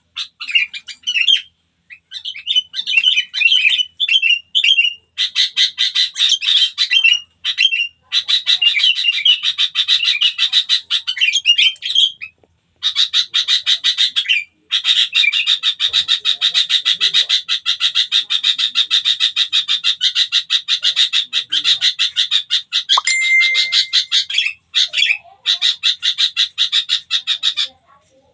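A small bird calling close by: a few seconds of varied high chirps, then long, fast stuttering trills that stop briefly now and then.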